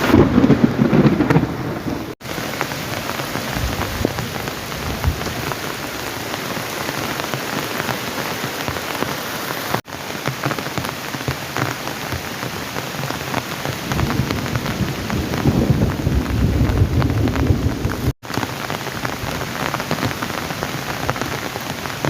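Heavy rain falling steadily, with low rolling rumbles of thunder at the start and again for a few seconds near the end. The sound drops out for an instant three times.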